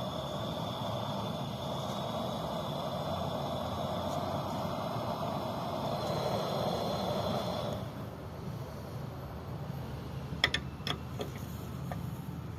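A steady mechanical running sound, an engine or motor, that stops about eight seconds in, followed by a few sharp clicks or knocks.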